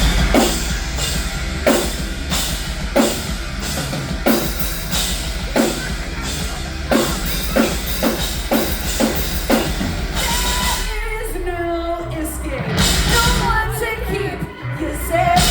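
Loud live rock band: heavy drum and bass hits land about every second and a bit. About ten seconds in the backing thins out and a voice sings, then the full band crashes back in near the end.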